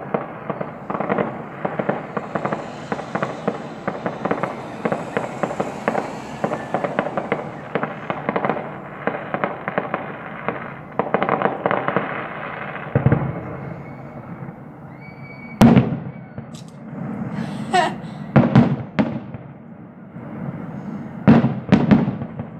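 Fireworks going off: a dense, continuous crackle of many small bangs for the first half, then a few separate, louder bangs spaced a second or two apart.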